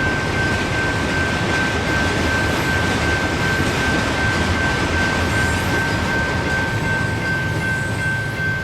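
Freight train's cars rolling by with a steady rushing noise and a single steady high-pitched whine held throughout.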